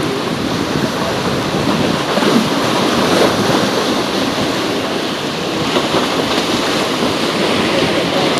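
Steady wash of harbour sea water, with wind buffeting the microphone.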